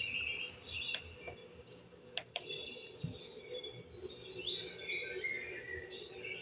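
Small birds chirping in many short, quick calls, with a few sharp clicks about one and two seconds in.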